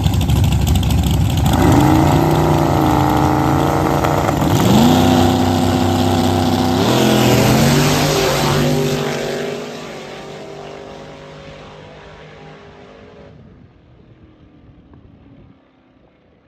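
A twin-turbo Corvette and a nitrous Camaro accelerating hard at full throttle. The engine notes climb and drop through several gear shifts, then fade steadily as the cars pull away into the distance.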